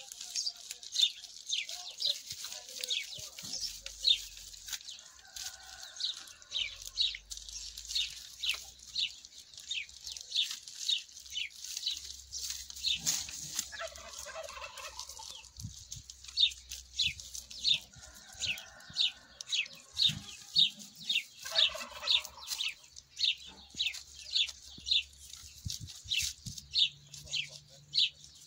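Birds chirping over and over, short high chirps about two or three a second, with a few lower calls in between.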